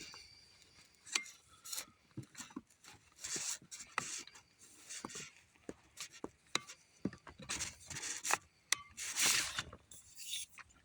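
Handling and adjusting a kayak oar: scattered clicks and knocks with short rubbing scrapes, and a longer scrape about nine seconds in.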